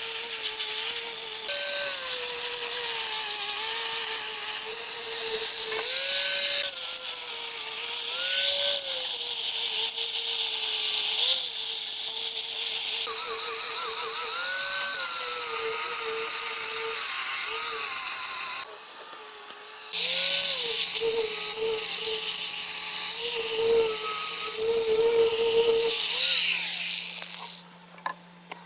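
Chainsaw running and cutting wood: a steady whine whose pitch lifts briefly every few seconds as the load changes, over a loud hiss from the cut. It breaks off for about a second partway through and fades out near the end.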